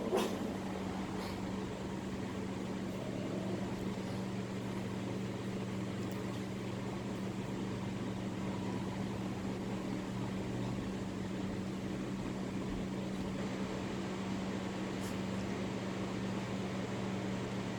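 Electric fan running steadily: an even whirr of moving air over a constant low motor hum, with a faint tick or two.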